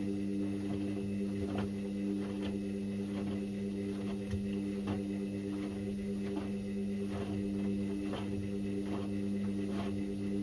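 Indesit IWC6165 washing machine's drum motor running steadily with a low hum as it turns the drum during the wash, with frequent soft irregular knocks from the laundry tumbling inside.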